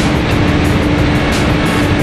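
Opel Astra 1.6 CDTI four-cylinder turbodiesel running at a steady, unchanging speed on a chassis dynamometer, with a constant hum.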